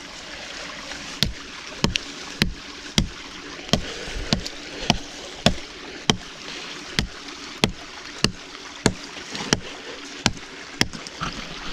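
A cheap hatchet chopping into wood: a steady run of sharp chops, a little under two a second.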